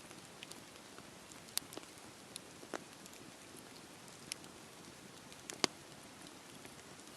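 Campfire burning in the rain: a steady hiss of rain with scattered sharp pops and crackles from the fire, the loudest pop a little past halfway.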